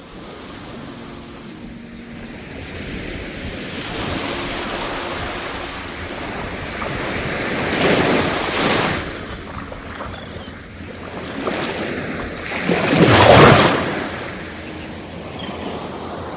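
Sea waves washing onto a sandy shore, with two louder breaking surges, the second the loudest, and wind buffeting the microphone.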